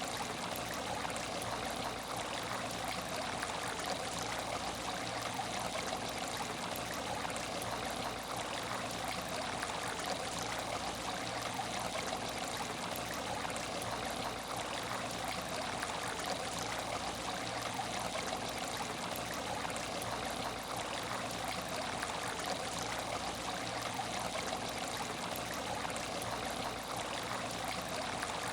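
Water trickling steadily in an aquarium tank, an even and unbroken running-water sound.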